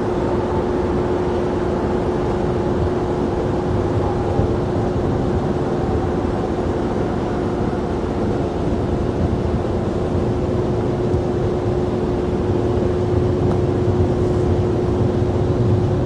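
Jet airliner engines running steadily: a constant noise with one steady mid-pitched whine held throughout, swelling slightly near the end.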